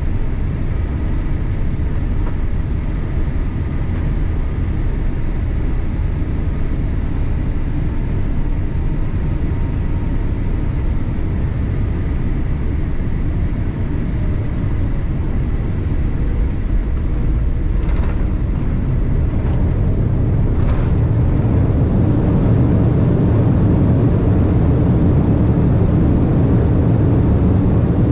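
Boeing 787-8 cabin noise heard from a window seat: a steady low rumble of the engines and airflow. It grows louder about two-thirds of the way through, with a couple of faint ticks just before.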